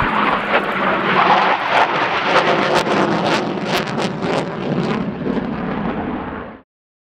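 Jet noise from an RAF Typhoon FGR4's twin EJ200 engines in flight: a loud, dense roar with many sharp crackles. It cuts off abruptly about six and a half seconds in.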